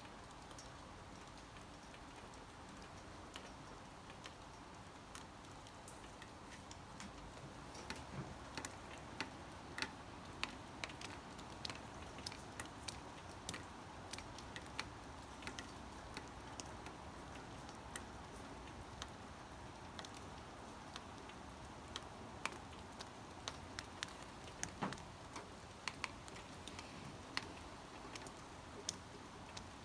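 Faint steady rain with irregular drops ticking on a hard surface close by. The drops come more often from about a third of the way in.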